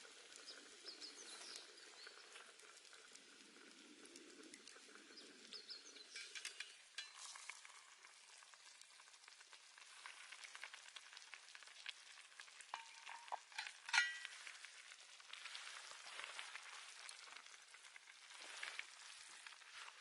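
Faint sizzling and crackling over a campfire, with scattered small pops and one louder pop about 14 seconds in.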